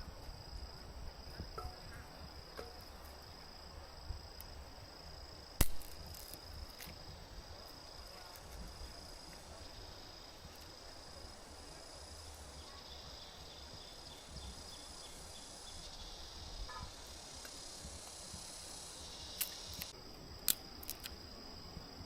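A steady high-pitched insect trill, with a wider high buzz joining in for several seconds in the middle. A few sharp clicks or snaps cut through it: the loudest a little over five seconds in, and several more near the end.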